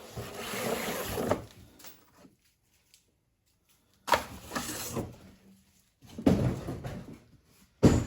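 Cardboard box and packing material being handled and rummaged through, in several bursts of rustling and scraping with a near-silent pause about two seconds in.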